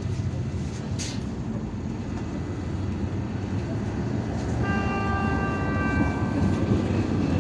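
Cabin sound of an IVECO Urbanway 18M articulated city bus under way: a steady engine and road rumble that grows slightly louder. There is a click about a second in and a high, steady whine for about two seconds just past the middle.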